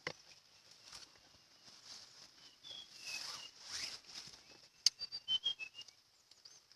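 Forest ambience: short whistled bird notes in two brief runs over a steady high-pitched drone, with a sharp click in between and a few soft rustles.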